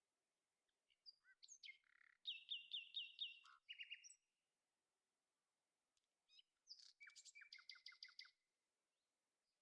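A songbird singing two short phrases of quick repeated chirping notes, the second after a pause of a couple of seconds, heard faintly over an otherwise quiet background.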